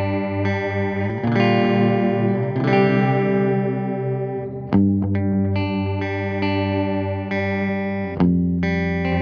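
Electric guitar played through an analog bucket-brigade-style delay pedal: sustained chords and notes with their echoes, freshly struck about a second in, again near the middle, and once more near the end.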